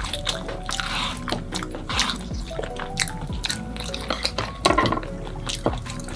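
A person chewing pizza close to the microphone: a string of sharp wet clicks and smacks from the mouth, with a denser burst a little after the middle. Background music with held notes plays underneath.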